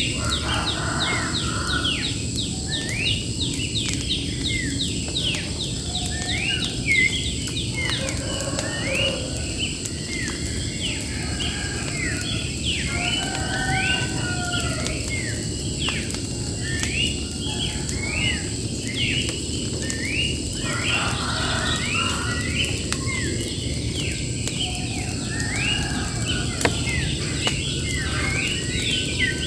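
Birds singing: a rapid run of short, sharply rising chirps repeating throughout, over a steady low hiss.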